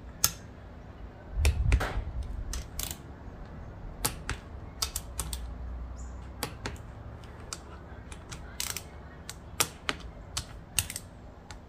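Sharp metallic clicks and taps at irregular intervals from a ratchet torque wrench and hand tools tightening the small camshaft bearing cap bolts on a 2AZ-FE cylinder head, with a brief low thud about a second and a half in.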